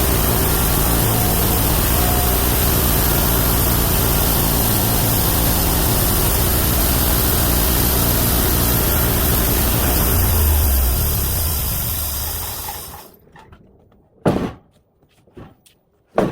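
Homemade bandsaw mill's 31 hp engine running steadily along with the saw noise, then dying away over about a second near the end. After it, two sharp knocks and a fainter one.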